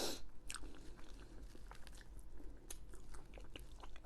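A person chewing food close to the microphone, with small wet mouth clicks and a short crunchy burst right at the start.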